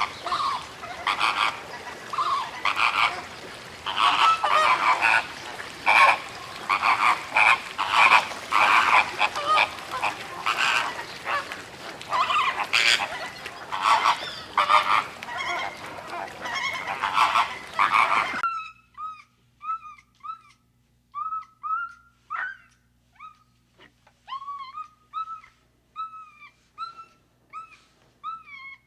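A flock of birds calling together in a dense, noisy chorus of honk-like calls. After a sudden cut about 18 seconds in, a single bird repeats a short call, about one and a half calls a second.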